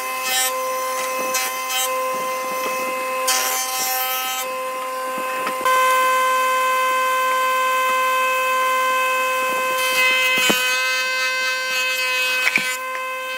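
Wood being worked by hand in irregular scraping, sawing strokes, over a steady humming tone that shifts in pitch a little about halfway through.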